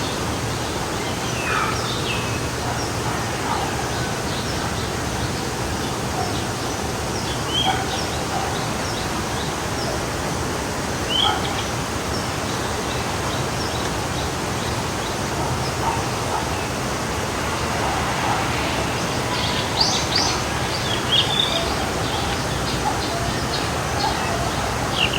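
Steady rush of a flowing forest stream, with scattered short bird chirps over it and a brief flurry of calls about twenty seconds in.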